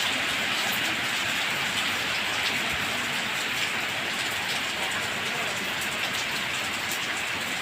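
Steady rain falling: an even hiss with scattered drop ticks through it.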